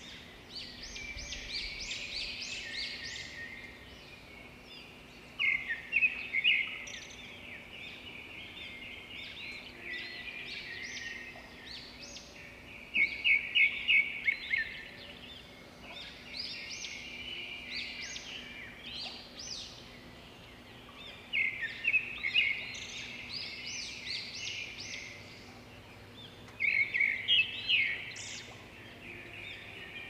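Songbirds chirping and singing, with a louder burst of quick repeated chirps every seven or eight seconds and softer chirping in between.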